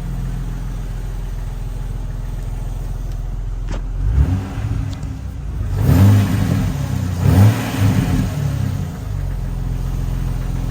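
Jeep Wrangler inline-six engine idling through a larger-diameter Banks cat-back exhaust, then revved several times in quick blips from about four seconds in, settling back to idle near the end.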